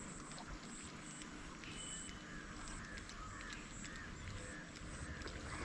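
Faint birds calling, short calls repeating every half second or so, over a high-pitched buzz that comes and goes.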